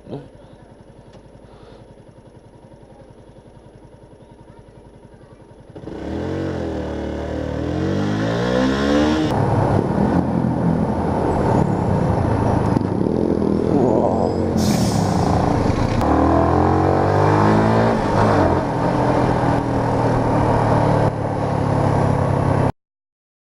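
Yamaha YZF-R125's 125 cc single-cylinder engine, low and steady at first. About six seconds in it accelerates hard, the revs climbing and falling back with each gear change, and it cuts off abruptly near the end.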